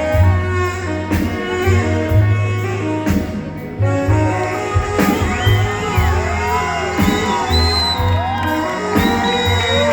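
Live rock band playing an instrumental passage, with a steady bass and a lead line of sliding, bending notes that comes in about halfway through.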